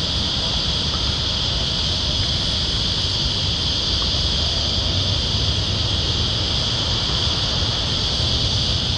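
Steady outdoor ambience: an unbroken high-pitched insect chorus over a constant low rumble.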